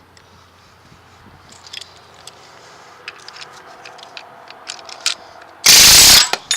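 Small metallic clicks, clinks and scrapes of tools and U-joint parts being handled while the universal joints are worked out of a truck drive shaft. Near the end comes one very loud burst of noise lasting about half a second.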